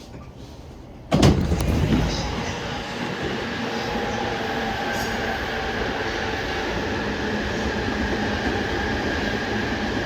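Freight train hauled by an EF210 electric locomotive passing close by. A sudden loud rush comes about a second in, then steady wheel-on-rail rumble with a thin steady whine over it.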